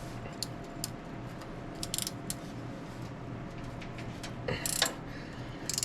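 Wrench working a bolt loose on a 1954 International R-110 engine's top end: scattered short metallic clicks, bunched about two seconds in and again near the end. The bolt puts up a little more of a fight.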